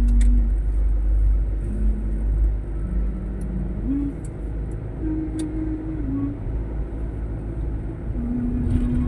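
Low, steady rumble of a car driving, heard from inside the vehicle. Over it runs a slow tune of held notes that steps up and down in pitch.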